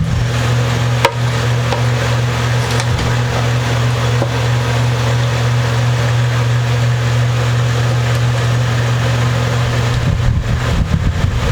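A steady, loud background hum and hiss with no change in pitch, with a single sharp click about a second in.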